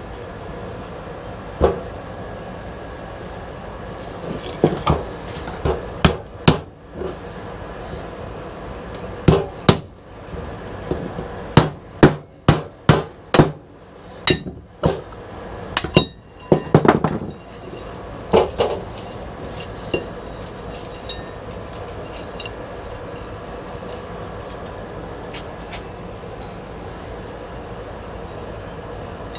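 Hammer blows on the metal parts of a ceiling fan being knocked apart, sharp and irregular, often in quick runs of several strikes with pauses between.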